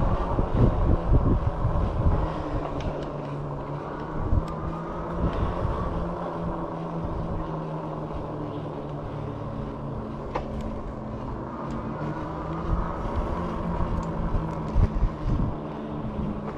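Riding an e-bike: a steady hum from the motor over irregular low rumble of wind and road noise.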